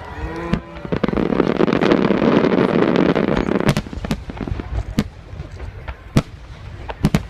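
Aerial fireworks bursting: a dense rush of noise for about three seconds, then single sharp bangs about a second apart.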